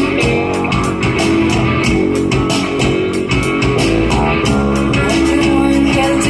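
Live rock band playing loudly: electric guitar, bass and drums with a steady beat.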